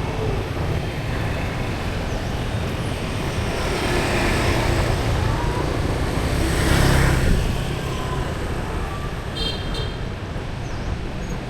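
Street traffic noise: a steady low rumble of road vehicles, with one vehicle passing close that swells to its loudest about seven seconds in and then fades.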